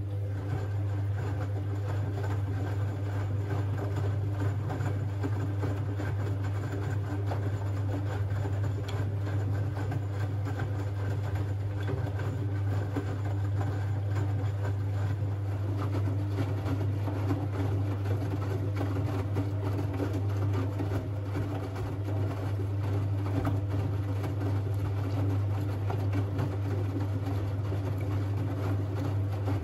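Siemens Siwamat 6143 washing machine running with a steady, low hum over a wash-water noise; the hum cuts off suddenly near the end.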